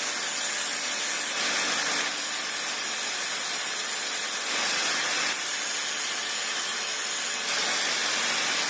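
Angle grinder with a grinding wheel, clamped to a workbench as a bench grinder, running while a tool is sharpened against the wheel: a steady, even hissing grind.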